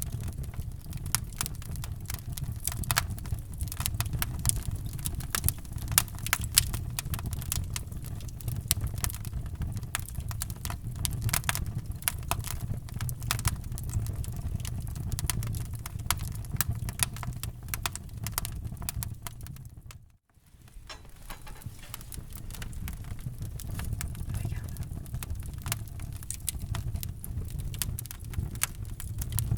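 Wood fire in a fireplace crackling, with dense irregular pops over a steady low rumble of the flames. About two-thirds of the way through it fades almost to silence for a moment, then comes back.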